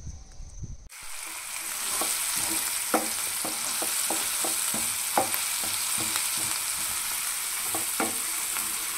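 Food frying in a hot pan, a steady sizzle, with a spatula stirring and scraping against the pan about two to three times a second. It starts abruptly about a second in.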